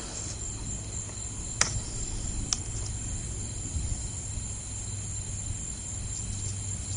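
Crickets chirring in a steady high tone, over a steady low rumble. Two brief clicks, about a second and a half and two and a half seconds in.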